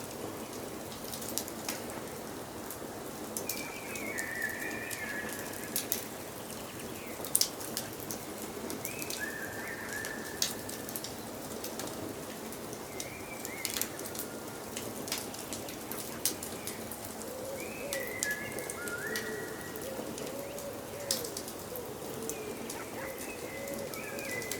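Wood fire crackling and popping steadily, with forest birdsong over it: a bird's short stepped whistled phrases every four or five seconds, joined in the second half by low wavering calls.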